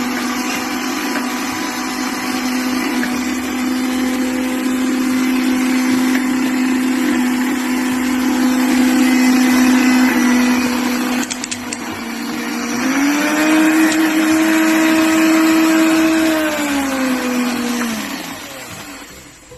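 Electric blender motor running under load, blending watermelon, with a steady hum. About two-thirds of the way through the pitch steps up, then it winds down and stops just before the end.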